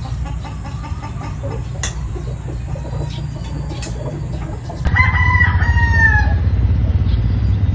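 A rooster crowing once, about five seconds in: a single call of about a second and a half that drops in pitch at the end, over a steady low rumble.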